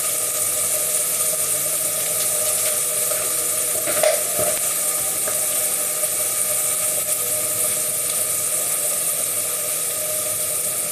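Onion frying in oil in a pan for a risotto base, a steady sizzle, with a faint steady hum underneath and a brief knock about four seconds in.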